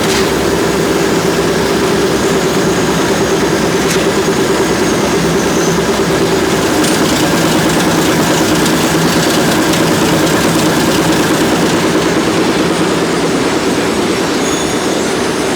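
Snack-factory production machinery running steadily: a loud, even mechanical noise with a constant hum.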